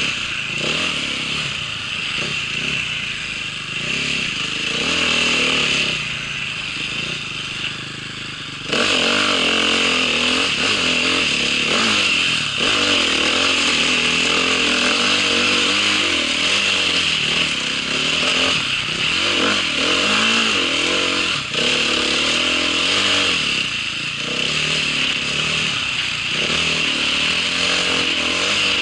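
Engine of a vehicle being ridden off-road, running under load with its pitch rising and falling as the throttle changes. It gets suddenly louder about nine seconds in.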